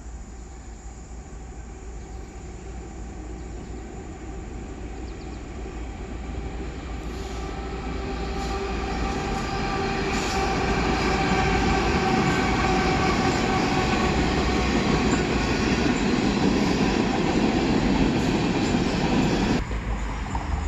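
Train rolling past on the rails, growing louder over the first ten seconds or so as it nears, with steady squealing tones from the wheels and the clicks of wheels over rail joints. The sound drops off abruptly near the end.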